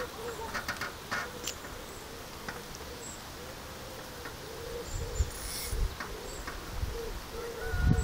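A bird cooing softly over and over in low, gently rising and falling calls, with a few brief low bumps around five seconds in and near the end.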